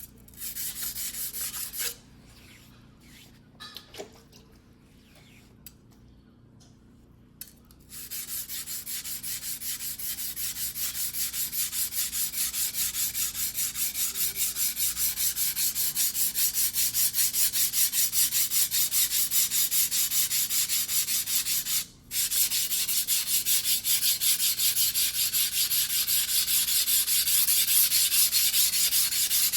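A single-bevel fugu-hiki sashimi knife blade in white steel being hand-sharpened on a wet whetstone: rapid, even back-and-forth strokes of steel scraping on stone. A short run of strokes comes first, then a pause with a few small knocks, then steady strokes from about a quarter of the way in, stopping briefly about three-quarters through and growing louder.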